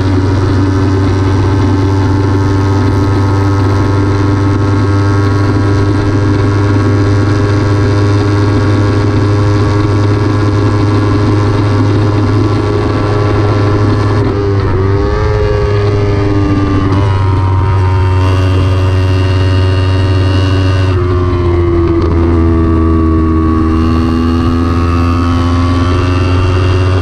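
Kawasaki Ninja 300's parallel-twin engine running hard at high revs on track, with a steady note for the first half. About halfway through the revs fall and climb again, then fall once more and rise slowly near the end.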